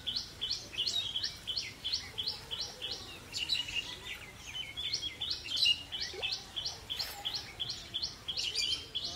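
A bird calling one short high note over and over, about four times a second, evenly spaced, with a brief pause about three and a half seconds in.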